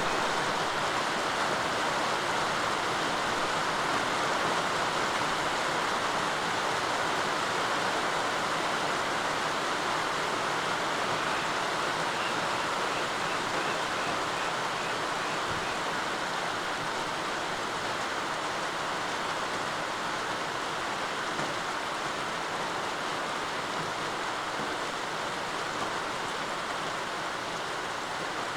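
Steady rain falling: an even hiss that holds level throughout.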